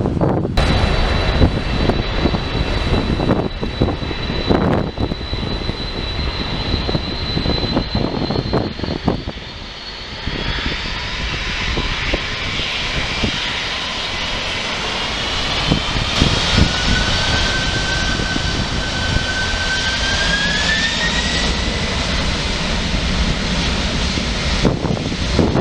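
Wide-body jet airliner's engines running, a high whine over a low rumble, with the whine rising in pitch over several seconds past the middle. Wind buffets the microphone.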